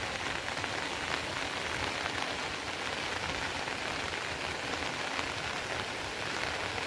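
Steady rain falling, a dense, even hiss of many small drop impacts.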